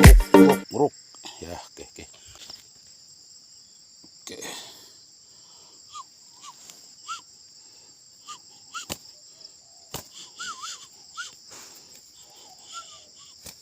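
Music cuts off within the first second. A steady, high, shrill drone of crickets or other insects follows, with scattered short chirping notes and two sharp clicks over it.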